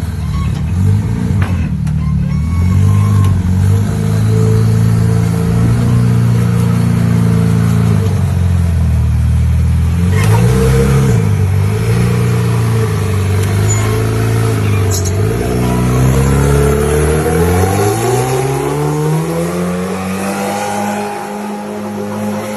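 Car engine running steadily, dipping briefly in pitch twice, then rising smoothly in pitch over several seconds near the end as it revs up.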